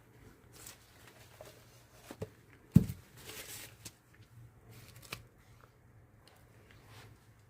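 Handling noises on a work table: small clicks, taps and a brief rustle as resin-pouring supplies are moved about, with one sharp knock about three seconds in.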